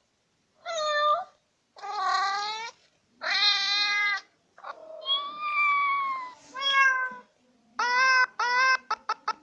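A string of cat meows, each well under a second, with one longer call in the middle that falls in pitch. Near the end come quick short mews in rapid succession.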